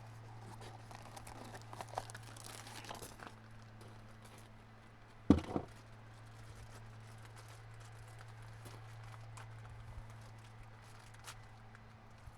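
Hand work reassembling an excavator's hydraulic pilot filter: faint rustling and small clicks of parts being handled, with one sharp knock about five seconds in, over a steady low hum.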